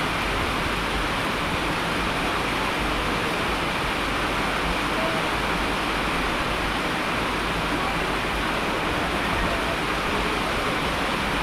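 Steady, even rush of falling water, a constant hiss with no pauses or distinct events.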